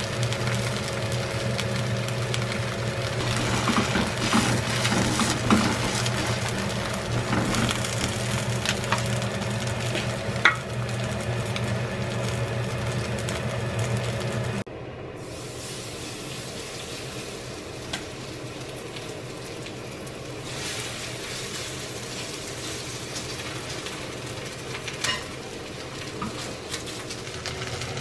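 Chamnamul and shrimp pancake sizzling as it fries in oil in a pan, over a steady low hum, with a few light clicks. The sound drops abruptly to a quieter level about halfway through.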